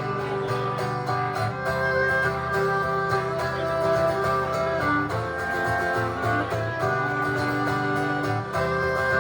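Instrumental break in an acoustic song: guitar playing steadily, with a melody of long held notes above it and no singing.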